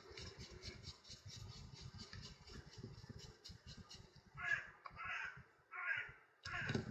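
Faint crackle of hands handling parts, then from about four seconds in four harsh calls about half a second each, a bird cawing.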